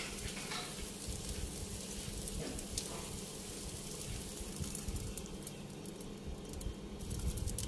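Thai omelette with enoki mushrooms frying gently in a pan: faint sizzling with scattered small crackles, more of them in the second half, over a steady low hum.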